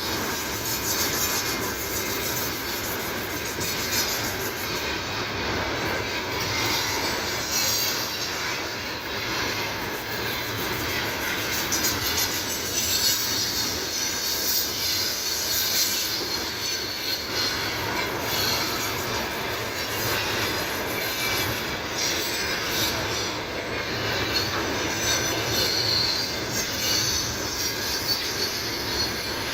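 A freight train's wagons rolling past at steady speed, with continuous wheel-on-rail noise and rattle that does not let up.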